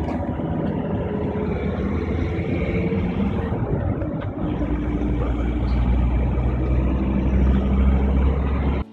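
A motor vehicle driving: engine hum and road noise, with a deep low rumble that swells about halfway through and grows louder, then cuts off abruptly at the end.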